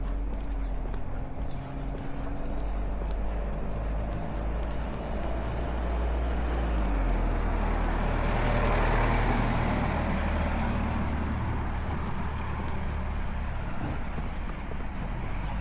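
Road traffic rumbling steadily, with a motor vehicle passing close by that grows louder towards the middle and then fades away.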